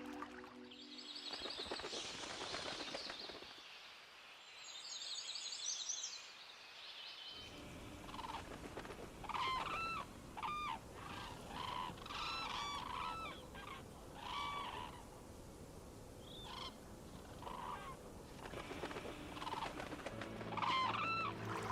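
Wild birds calling: two bursts of high twittering song in the first several seconds, then from about eight seconds in a run of short, repeated calls, each a few notes, over a steady background hiss.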